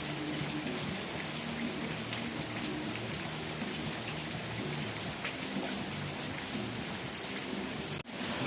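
Steady rain falling on a surface, with individual drops ticking through it and a low drone underneath. The sound briefly cuts out about eight seconds in.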